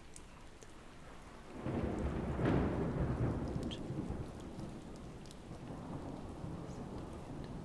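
Thunder rumbling over steady rain: a roll builds about one and a half seconds in, peaks soon after and slowly dies away, while the rain goes on.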